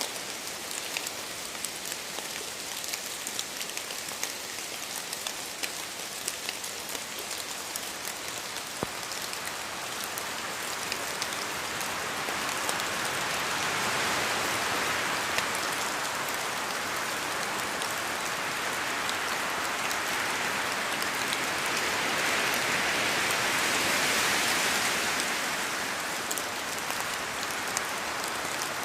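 Steady rain, with scattered individual drops ticking through the hiss. It swells louder through the middle and eases off again near the end.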